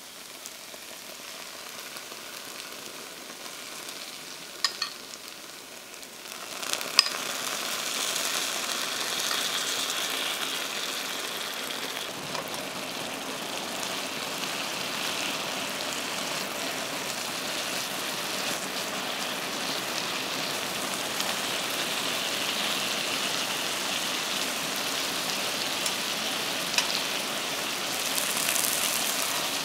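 Aubergine wedges sizzling in oil in a frying pan as a dark soy-honey glaze is spooned over them. The sizzle grows louder about six and a half seconds in and then holds steady, with a few light clicks of metal utensils against the pan.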